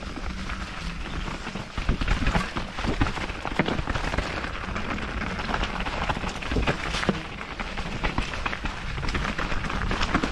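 Canyon Spectral AL6 mountain bike ridden down a wet enduro trail: tyre and wind noise with frequent sharp knocks and rattles from the bike over rough ground.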